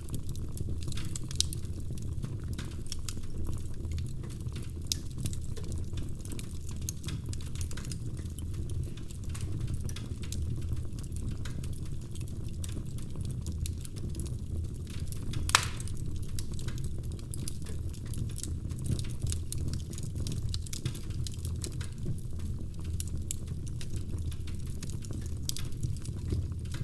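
Wood fire crackling in a fireplace: scattered sharp pops and snaps over a steady low rumble of the flames, with one louder pop a little past halfway.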